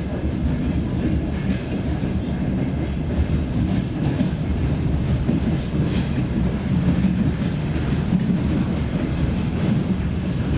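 DR1A diesel train running on the line: a steady low rumble of engine and wheels on the rails.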